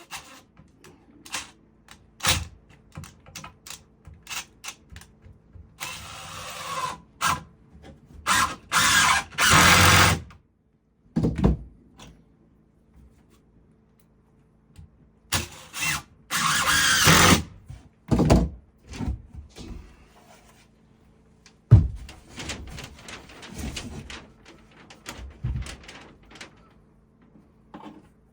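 Carpentry work: scattered knocks and clatter of wood and tools being handled, with three short runs of a power tool lasting a second or two each.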